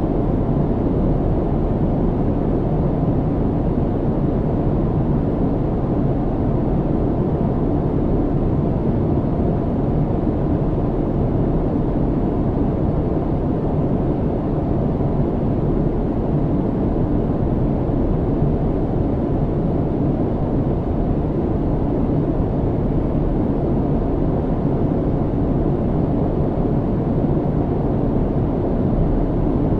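Steady low rumble of a jet airliner's engines and airflow heard inside the passenger cabin in cruise, an even noise with most of its weight in the low end and no changes.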